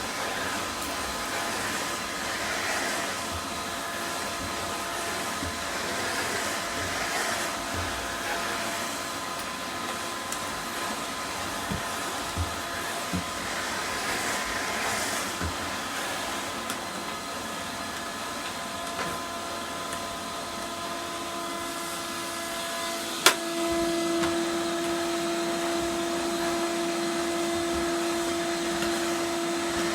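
1993 Numatic NVR200 cylinder vacuum cleaner running with a steady whine. It vibrates quite a bit, which the owner puts down to a dust-clogged motor that probably needs its fans cleaned and bearings oiled. A sharp click comes about three-quarters of the way through, after which a low steady hum grows louder.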